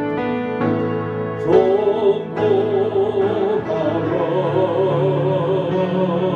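A hymn with keyboard accompaniment: sustained keyboard chords, then singing voices with vibrato come in about a second and a half in and carry the melody over the keyboard.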